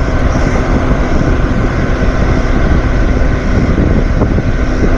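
A machine running steadily: a continuous motor-and-air noise with a faint steady whine over it.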